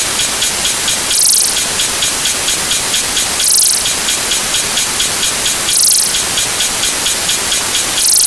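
Dense, rain-like hiss from a great many sound effects played over one another at once, with fast regular ticking and a brighter burst of high hiss about every two and a third seconds.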